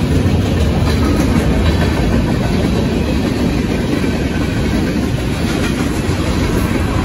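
Loud, steady sound of a manifest freight train's cars rolling past at speed, steel wheels running over the rails at close range.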